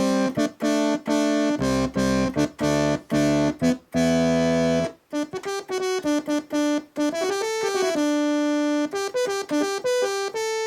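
Roland JX-3P analog polysynth with the Kiwi-3P upgrade playing its Brass 1 preset. It opens with short repeated chord stabs for about five seconds, then moves to a single-note melodic line with some held notes.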